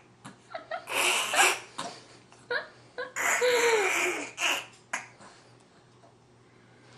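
A baby making funny noises: a string of short breathy, laugh-like bursts and squeals, one longer call with a falling pitch about three seconds in, then quiet for the last two seconds.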